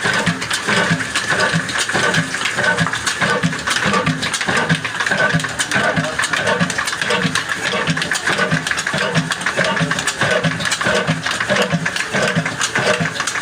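Desi 'Kala' slow-speed oil engine, rated 30 HP at 250 rpm, running steadily with an even, regular beat of a few strokes a second.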